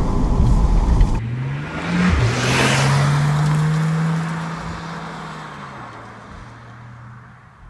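Porsche 911 Targa 4's 3.0-litre twin-turbo flat-six accelerating away, rising in pitch and dropping once at an upshift about two seconds in. It then holds a steady note that fades slowly as the car draws off. For the first second there is low wind and road rumble inside the car.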